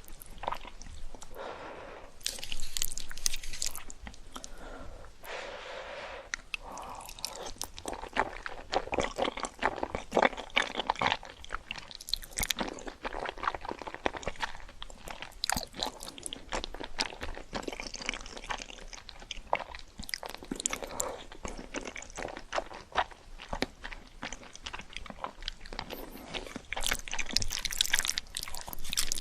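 Close-miked ASMR eating: a person biting into and chewing crunchy food, a dense run of crackling crunches with louder bites about two seconds in and again near the end.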